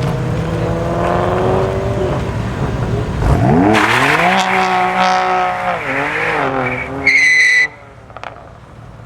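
A modified BMW M car's engine revving hard under acceleration, its pitch climbing steeply about three seconds in and holding high before wavering. Near the end a short, high tyre squeal, then the sound drops away suddenly.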